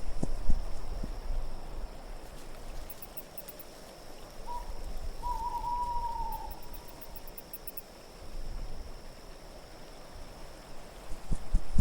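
An owl hooting: a short hoot about four and a half seconds in, then a longer, slightly falling hoot, over a low wind rumble that eases and builds again near the end. Faint high tinkling near the middle.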